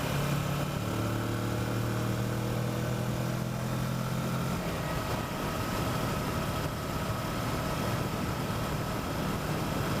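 Kawasaki Versys motorcycle engine running steadily at road speed under a constant rush of wind noise. The engine note changes about halfway through.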